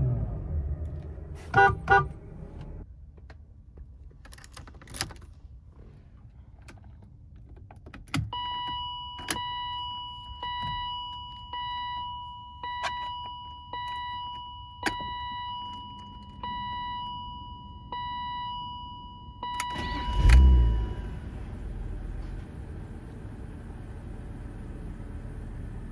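1998 BMW 328is (E36) inline-six: its revs fall away and the engine goes quiet near the start. An electronic warning chime then beeps steadily a little faster than once a second, with the clicks of the key and switches. About 20 s in the engine cranks, catches with a loud burst and settles to a steady idle.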